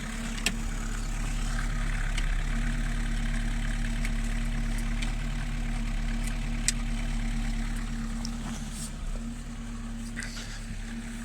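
Lada Niva's four-cylinder engine idling steadily, with a few sharp clicks.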